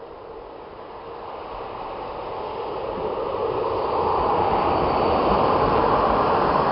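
Approaching CFR electric locomotive-hauled train, its rumble and rail noise growing steadily louder as it nears.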